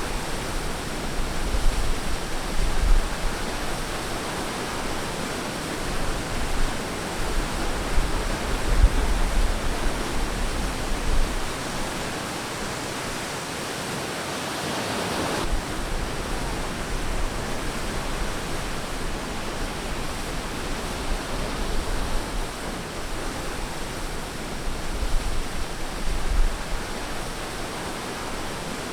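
Ocean waves washing on a beach: a continuous rush of surf that swells and eases, with a low rumble underneath. About halfway through the rush swells and then drops off abruptly.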